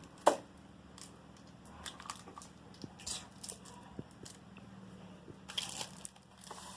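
Scattered knocks, clicks and rustling from things being handled, with one sharp knock just after the start and a burst of rustling near the end.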